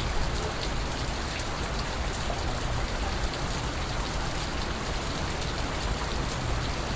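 Steady rain falling: a dense, even patter with many small individual drop ticks scattered through it.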